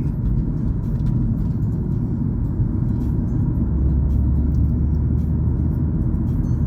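Steady road noise and engine drone of a car driving, heard from inside the cabin.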